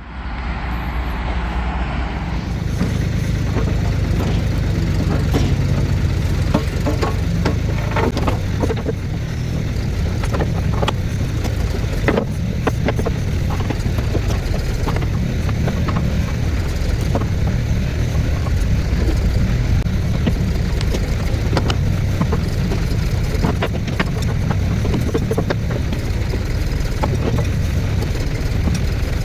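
Diesel engine of a 1973 Ford 4500 industrial backhoe running steadily, building up over the first couple of seconds and then holding, with scattered knocks and clanks over it.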